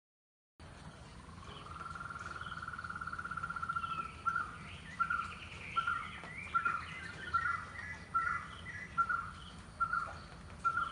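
White-cheeked barbet singing: a long rising 'trrr' trill that opens the song, then a steady run of repeated 'kutroo' notes, about three every two seconds. Other birds chirp faintly behind it.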